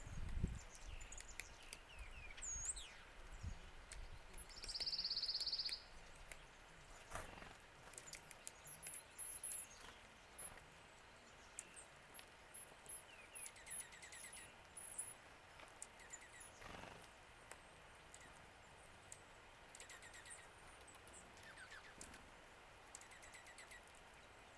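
Small birds calling faintly at a feeding spot: scattered chirps, runs of very high thin notes and short repeated notes. One buzzy call about five seconds in is the loudest sound. Light clicks and taps are mixed in.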